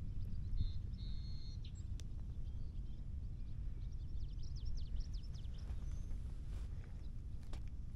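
Birds calling over a steady low rumble: a held high note early on, then a quick run of short down-slurred chirps around four to five seconds in. A couple of sharp clicks stand out.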